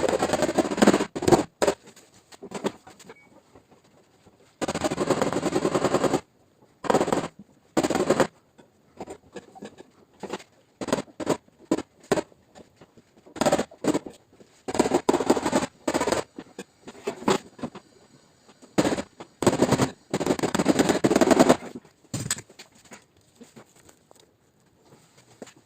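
Paintless dent repair tapping on a car's tailgate panel: bursts of rapid knocks from a tap-down tool, a second or two each, broken by short pauses and the odd single knock, as high spots in the sheet metal are knocked down.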